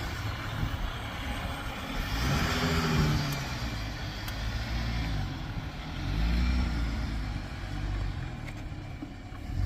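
A Jeep's engine running and revving in swells, its pitch rising and falling about three times over a steady low rumble.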